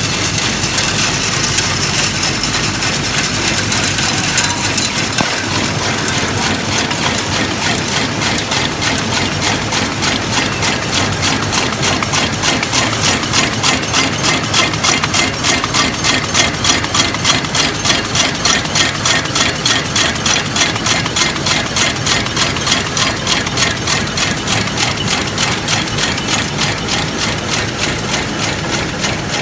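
A chewing gum wrapping machine running at speed, packing four sticks on edge. It makes a steady mechanical clatter that settles into an even rhythm of strokes, a few a second, about a third of the way in.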